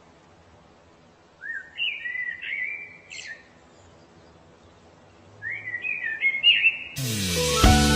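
A songbird singing two short phrases of quick, rising, warbling whistled notes, the first about a second and a half in and the second about five seconds in. Music starts suddenly near the end.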